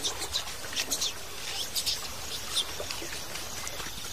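Birds chirping: short, high calls about once a second over faint outdoor ambience.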